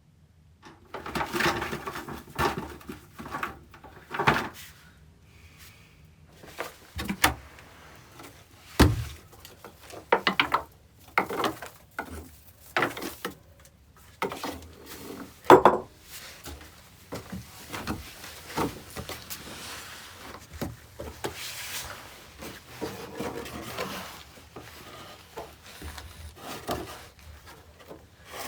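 Irregular handling sounds: a run of sharp knocks and short scrapes, a few with a heavier thud, turning into a denser stretch of rubbing and rustling about two-thirds of the way through.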